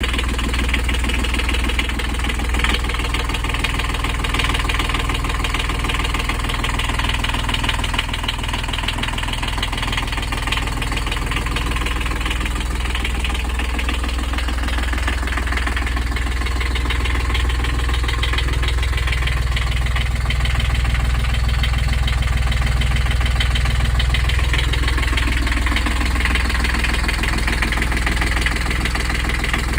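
Beta 20 three-cylinder marine diesel engine idling steadily in neutral, a constant low rumble.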